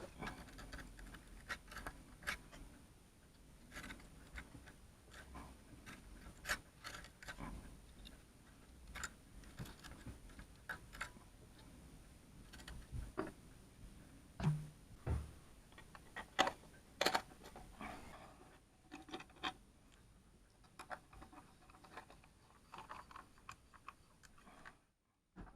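Irregular clicks, scrapes and light knocks, as of small hard objects being handled, over a faint steady high-pitched whine.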